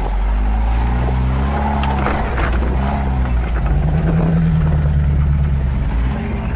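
Old 4x4 pickup truck's engine revving up and down as it is driven hard off-road.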